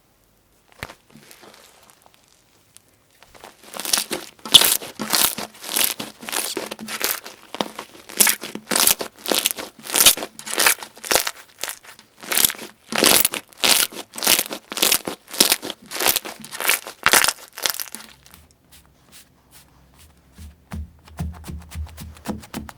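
Slime being squeezed and pressed by hand, giving rhythmic crunchy crackles of about two a second, which stop after about eighteen seconds.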